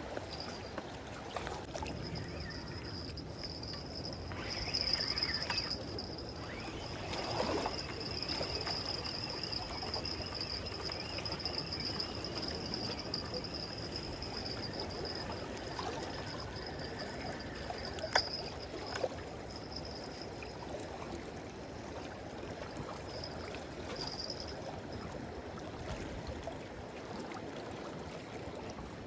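Sea water lapping and trickling against a breakwater, a steady wash with a thin, steady high-pitched tone over it. A single sharp click comes about 18 seconds in.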